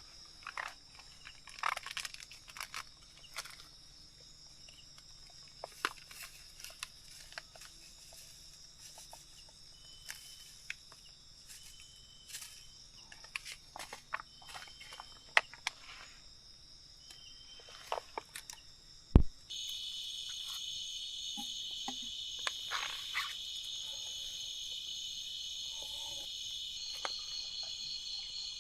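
Steady high-pitched night chorus of crickets and other insects, with scattered small clicks and knocks and a sharp knock about 19 seconds in. Right after the knock the chorus suddenly becomes louder and fuller.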